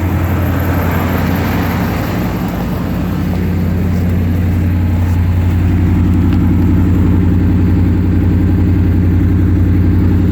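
The 1988 Chevy 1500's 350 V8 running steadily, still cold from being started in sub-zero weather. The engine note gets a little louder about halfway through.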